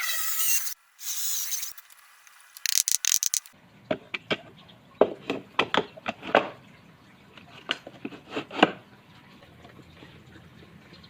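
Drill-driven wood lathe or power tool cutting wood with a hissing rasp, breaking off and returning in short bursts. About three and a half seconds in it gives way to a series of irregular sharp knocks and taps of wood being handled or tapped, over a low hum.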